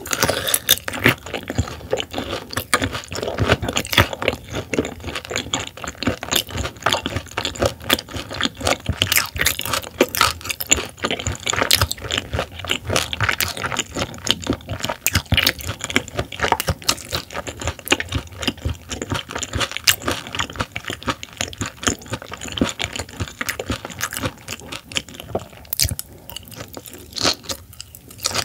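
Close-miked chewing of raw silver pomfret (butterfish) sashimi: a dense, continuous run of small wet clicks from the mouth. There is a brief lull near the end.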